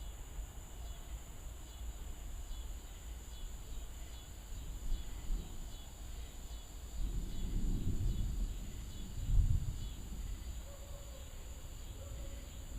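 Insects chirping in a steady rhythm, about once a second. A low rumble of distant thunder swells about seven seconds in, peaks near nine seconds and dies away.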